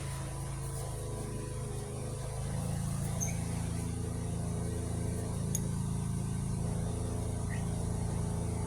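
A steady, low mechanical drone from a running engine or machine, a little louder from about two and a half seconds in, with a few faint metallic clicks.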